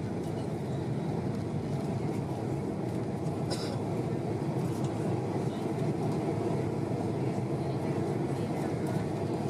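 Steady rumble of a Boeing 767-300 airliner heard from inside the passenger cabin: engine and airflow noise, even and unchanging, with a faint click about three and a half seconds in.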